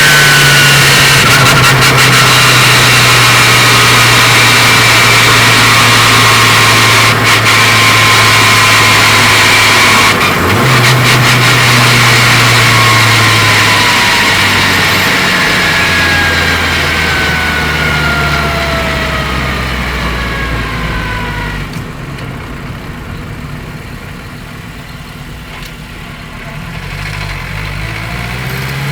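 Turbocharged Honda K20 four-cylinder engine running under driving, heard from the engine bay, with a thin whine from the helical-cut gearset falling in pitch as the car slows. About ten seconds in the engine note jumps up as a gear is changed; the engine then winds down, quieter, toward idle, and picks up again near the end.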